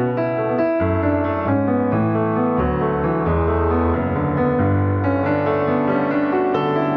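Background piano music: gentle notes over sustained bass tones.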